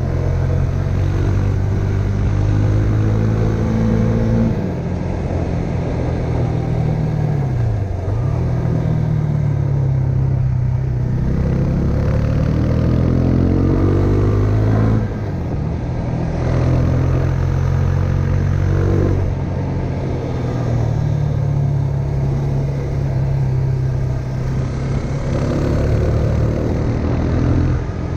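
Husqvarna Svartpilen 401's single-cylinder engine under way, its pitch rising and falling with throttle and gear changes. It eases off near the start, sinks to a low about eight seconds in and climbs again, then drops suddenly about halfway through before holding steadier.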